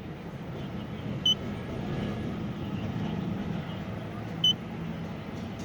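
Mercedes-Benz S600's V12 engine running steadily with a low rumble. Two short, high electronic beeps sound over it, about a second in and again about four and a half seconds in.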